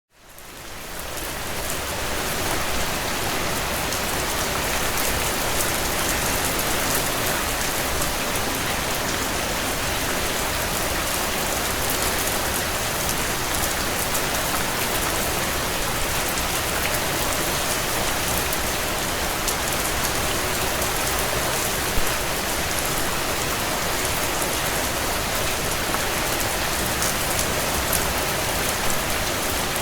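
Heavy rain falling on a tin roof: a steady, even patter of drops that fades in from silence over the first second or two, with one sharper drop tick about two-thirds of the way through.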